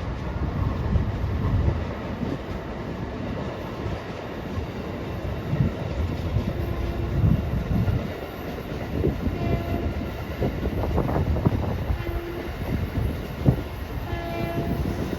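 A train running over the elevated trackbed: a steady rumble of wheels on rail with knocks over the joints, and short tones breaking in four times.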